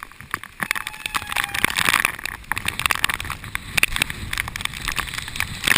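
Rain striking the waterproof housing of a head-mounted GoPro Hero2 in dense, irregular taps, over a haze of wind noise from strong typhoon gusts on the microphone.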